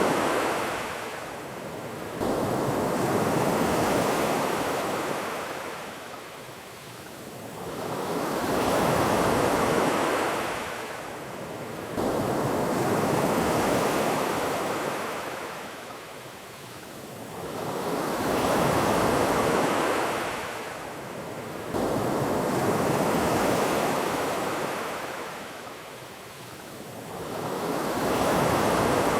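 Ocean waves washing onto a shore, each swell rising and falling back about every five seconds; a few swells come in with a sudden jump in level.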